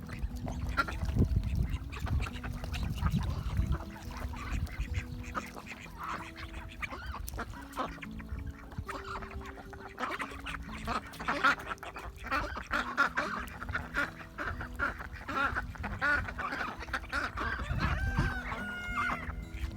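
A flock of heritage turkeys calling, with many short calls overlapping, busiest in the second half.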